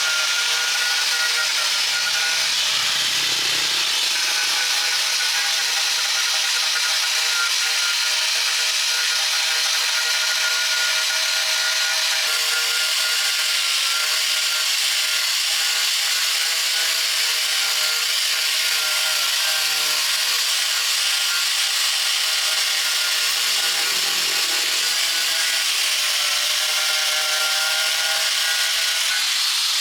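A power tool running steadily: a constant hissing whir with a faint steady whine.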